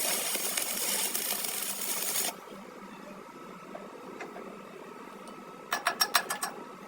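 A workshop tool runs with a steady hiss and cuts off abruptly about two seconds in. Near the end comes a quick run of sharp taps or knocks, about eight in a second.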